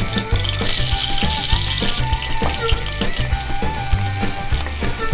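Butter and then diced onion, celery and red bell pepper sizzling in hot rendered bacon fat in a pot. The hiss starts about a third of a second in.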